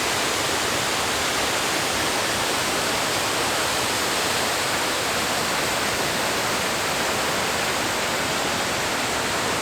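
Waterfall rushing: a steady, even wash of falling water with no let-up.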